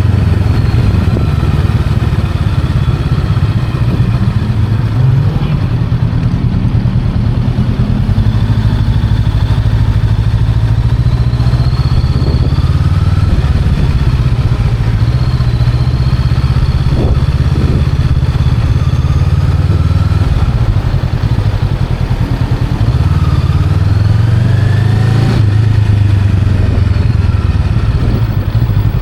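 Honda Rebel 500's parallel-twin engine running steadily while riding, its pitch swelling and easing a little a couple of times.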